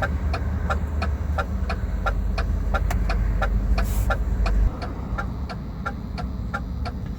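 Hazard-light flasher relay in a DAF CF truck cab ticking steadily, about three clicks a second, over a low rumble that drops away about two thirds of the way through.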